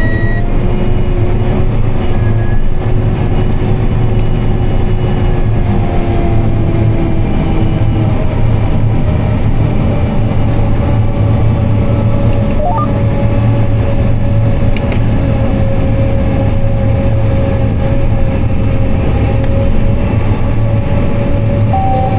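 Tractor engine running steadily under load while pulling a planter, a constant low drone heard from inside the cab, with a faint steady whine above it.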